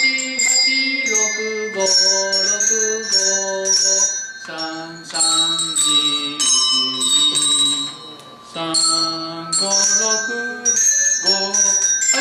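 Numbered hand bells rung one after another by a group of young children, playing a simple tune note by note, each note ringing on into the next, with a brief pause about eight seconds in.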